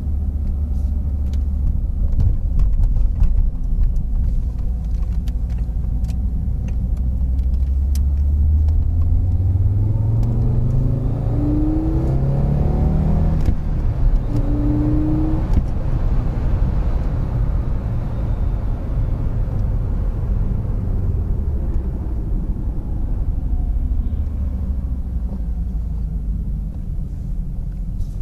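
1987 Audi Coupe GT's 2.3-litre five-cylinder engine heard from inside the cabin on the move: a steady low drone with road noise. About ten seconds in it rises in pitch as the car accelerates, breaks off briefly and climbs again, then settles back to an even cruise.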